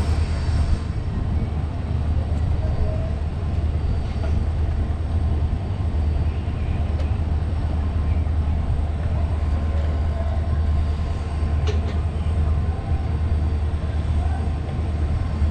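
Indian Railways passenger train with ICF coaches running along the track: a steady low rumble with running noise.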